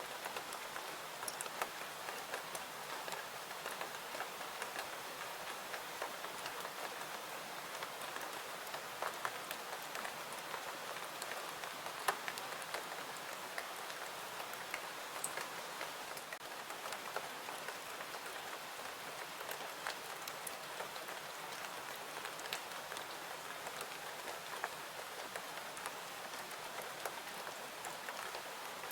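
Steady rain falling, an even hiss with many scattered sharp ticks and drips, one louder tick about twelve seconds in.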